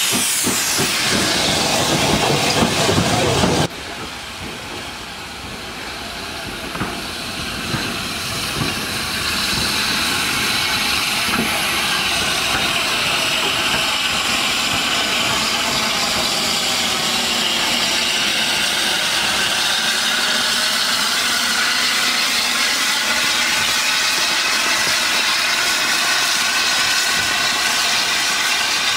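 Steam locomotive 30777 Sir Lamiel, an N15 King Arthur class 4-6-0, hissing loudly with steam. The sound breaks off abruptly about three and a half seconds in, then the hiss builds again and holds steady.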